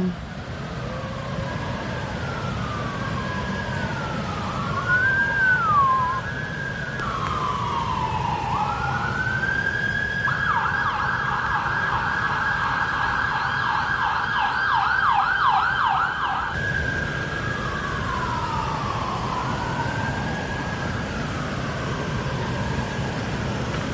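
Emergency vehicle siren: a slow rising and falling wail that switches to a fast yelp about ten seconds in, then back to the wail about six seconds later, over a low rumble of traffic.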